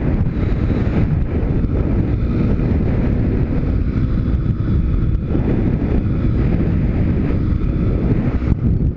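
Pit bike's YX 160 single-cylinder four-stroke engine running steadily while riding, mixed with heavy wind noise buffeting the microphone.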